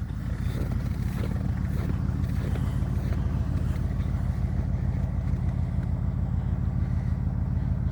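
An engine idling steadily: a low, even rumble with fast regular firing pulses.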